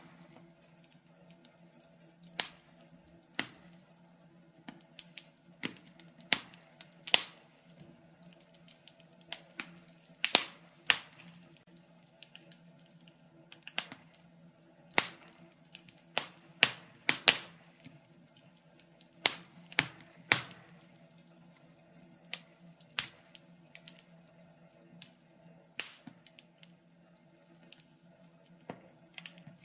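Wood fire crackling in a fireplace: irregular sharp pops and snaps, sometimes in quick clusters of two or three, over a faint steady low hum.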